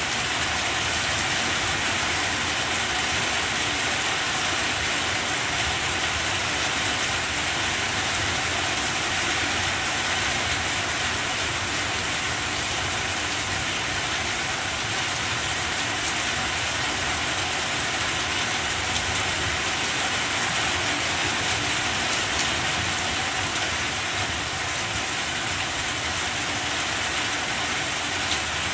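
Steady rain falling on banana plants' broad leaves: a continuous, even hiss with no breaks.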